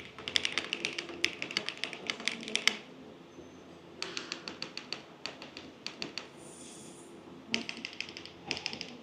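Typing on an Orbit65 R2 mechanical keyboard with GMK Rainy Day keycaps: quick runs of keystroke clacks in three bursts, broken by two short pauses of about a second each.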